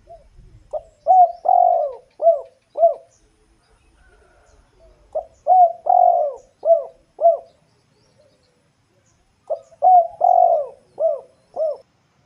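Dove cooing: three phrases of quick, rising-and-falling coo notes, about six notes to a phrase, repeated every four to five seconds.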